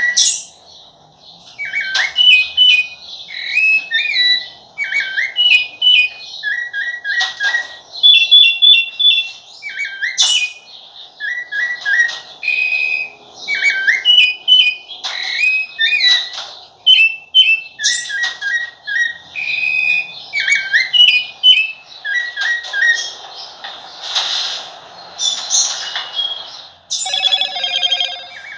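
Rufous-bellied thrush (sabiá-laranjeira) singing: a run of short, clear whistled phrases of a few sliding notes each, repeated with brief pauses.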